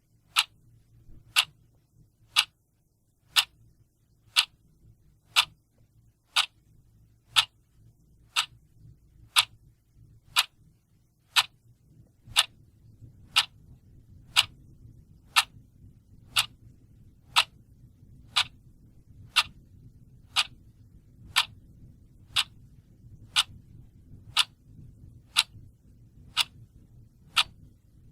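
Clock ticking steadily, one sharp even tick about every second.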